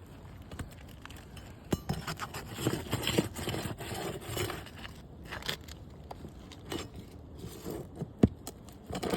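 Roof shingles being worked loose and their nails pulled: irregular scraping with metallic clicks and clinks, and a few sharper knocks near the end.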